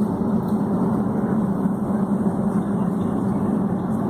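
Steady drone of a Boeing 757's jet engines and airframe rumble, heard from inside the passenger cabin.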